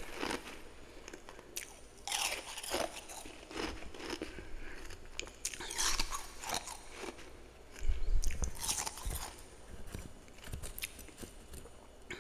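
Close-miked biting and chewing of powdery freezer frost, with irregular crisp crunches a second or so apart and a low thump about eight seconds in.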